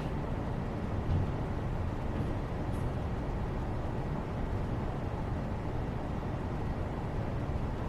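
Steady low rumbling background noise of a room during a study session, with a faint small tick about three seconds in.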